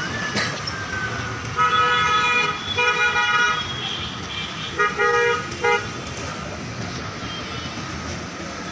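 Vehicle horn honking in four steady toots, the first two longer and the last two short, over street traffic noise.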